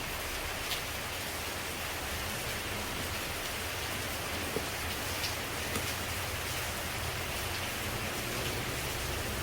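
Steady rain falling on leaves, with a few louder single drops ticking now and then.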